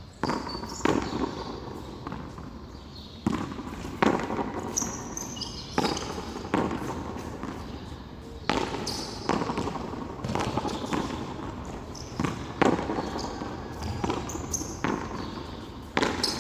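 Frontón handball rally: a rubber ball smacked by hand and hitting the wall and floor, making sharp, irregular smacks about once a second with short echoes, and a few short high squeaks.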